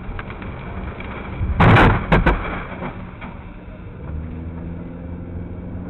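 Road vehicle collision: a loud crash about a second and a half in, followed at once by a second, shorter crash, over the steady hum of a running car engine.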